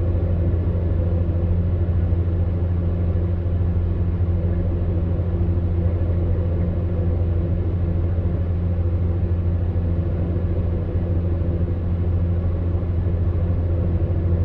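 Electric fan heater running steadily: a deep, even hum with a few steady tones above it and a soft rush of air, unchanging throughout.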